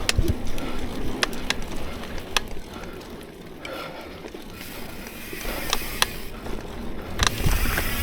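Mountain bike rolling along a dirt trail: low tyre rumble with a few sharp clicks and rattles from the bike.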